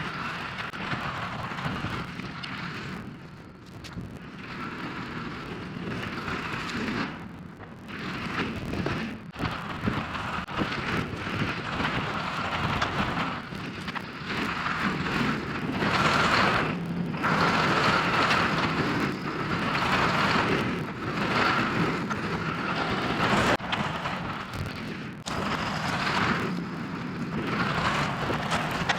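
Yanmar excavator's diesel engine running under load as it works its hydraulics, with a steady whine over the engine noise, the level rising and falling and dipping briefly several times.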